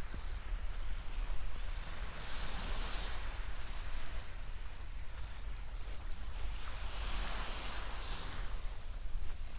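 Surf washing in, with two swells of hiss about three and eight seconds in, over a steady low rumble of wind on the microphone.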